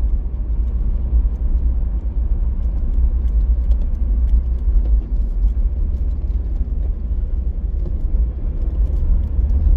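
Steady low rumble of a car driving along a road, with faint scattered ticks above it.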